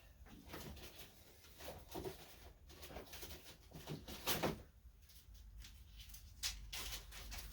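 Removed turn-signal parts being handled and bagged: scattered light rustles and small knocks from a plastic zip-top bag and parts, the clearest about four seconds in.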